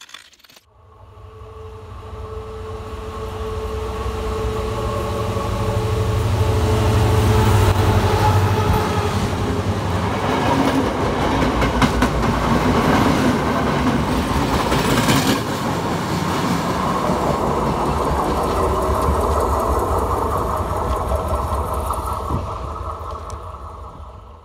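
A passenger train passing close by on the track. A steady drone with held tones and a low rumble builds as it approaches, then the wheels clatter in quick repeated clicks over the rails at the loudest part, and the sound fades away near the end.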